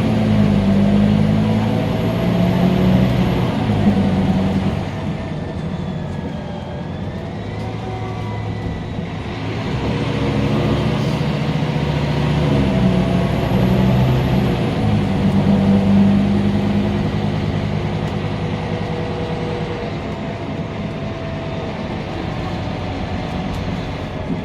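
Scania K310UB city bus's five-cylinder diesel engine working under load, easing off about five seconds in, then building again before settling, with a thin high whine rising and falling above it.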